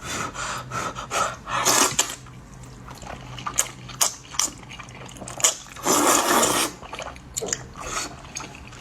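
Wet sounds of slippery potato noodles in spicy sauce being handled in a bowl, with scattered small clicks and two longer wet bursts, about two and six seconds in.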